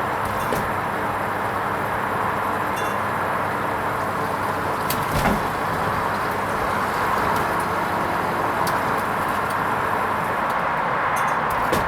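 Hoover Vision HVP16 washing machine running through its wool rinse programme: a steady noise with a few faint clicks.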